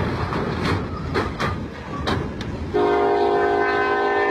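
Freight train rolling past, wheels clattering with a few sharp clanks. About two-thirds of the way in, a locomotive air horn blows one steady multi-tone blast that is cut off abruptly.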